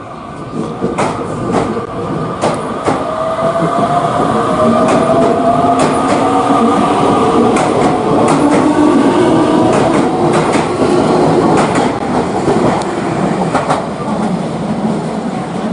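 Electric commuter train accelerating, its traction motors whining in a slowly rising pitch, with wheels clicking over rail joints throughout.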